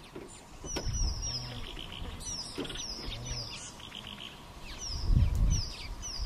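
Birds chirping: short high calls that drop in pitch, repeated in quick runs of two or three, over a low rumble that swells loudest about five seconds in.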